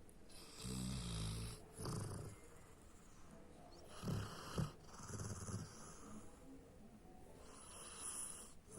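Labrador retriever snoring in its sleep: a low snore on each of several slow breaths, with hissing breaths between and two short sharp snorts about four seconds in.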